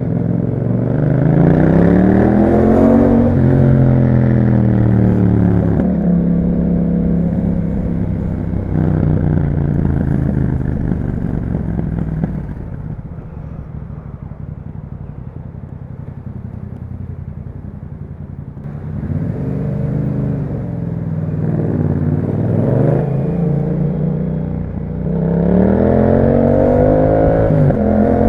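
Yamaha MT-07 parallel-twin engine through an Akrapovic exhaust, heard while riding. It revs up in pitch at the start and holds steady for a while. Around the middle it drops to a quieter, low-revving stretch, then revs rise and fall again before it accelerates once more near the end.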